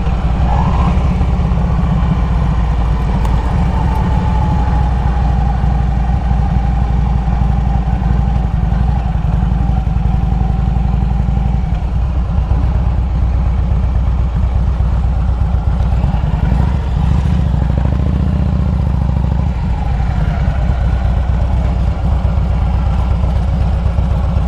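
Harley-Davidson Road King's V-twin engine running steadily under way, a constant low exhaust note.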